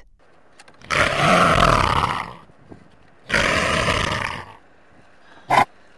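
Leopard roaring: two long calls of about a second and a half each, and a short burst near the end.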